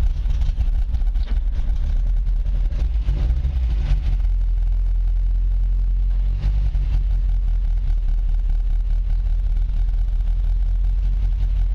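1965 Datsun PL320 pickup's four-cylinder petrol engine running just after a cold start. It runs a little unevenly for the first few seconds, then settles into a steady idle.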